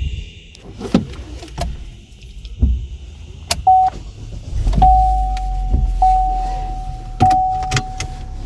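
Inside the cabin, a few clicks and knocks and a short chime, then the 2019 Chevrolet Spark's 1.4-litre four-cylinder Ecotec engine cranks and starts about five seconds in and keeps running. A steady warning chime repeats over the engine, about once a second.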